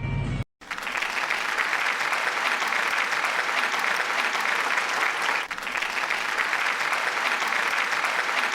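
Steady applause from many hands clapping, starting abruptly about half a second in after a brief end of acoustic guitar music.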